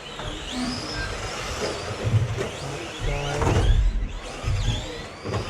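Radio-controlled racing trucks running on a track: their motors whine up and down in pitch as they accelerate and brake, with low knocks and rumble from the trucks.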